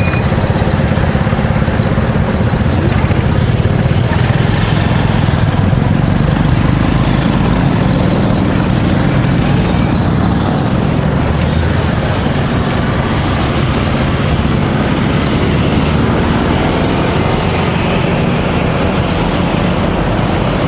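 Steady wind and road noise from riding a bicycle through street traffic, with motor vehicle engines running around it.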